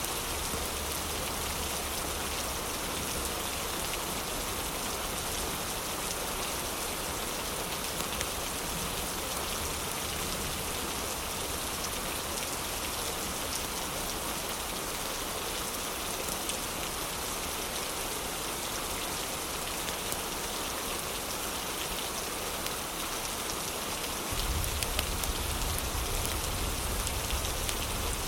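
Heavy rain falling steadily in a dense, even hiss. About 24 seconds in, a deeper low rumble underneath grows louder.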